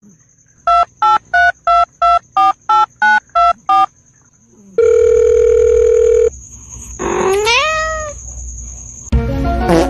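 Telephone keypad tones: ten quick dialing beeps, then a steady phone tone for about a second and a half. About seven seconds in comes a cat's rising meow, and a second call starts near the end.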